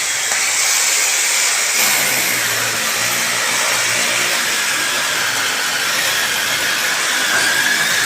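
A power tool's motor running steadily and loudly without a break, a continuous hiss-like machine noise with a faint steady whine.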